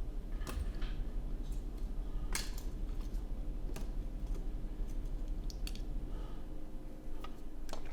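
Small, separate clicks and taps of metal tools handling tiny surface-mount parts (data chokes) on a circuit board, a few seconds apart, over a steady low hum.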